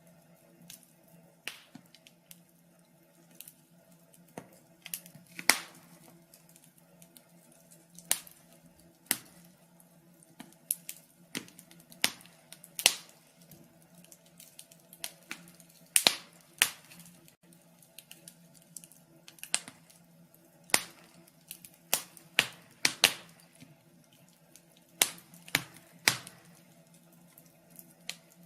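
Wood fire in a fireplace crackling: irregular sharp pops and snaps, a few of them much louder, over a faint steady hum.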